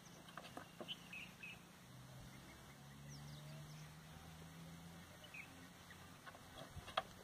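Faint outdoor quiet with scattered short bird chirps and a few light clicks, the sharpest click near the end. A low, faint hum runs through the middle.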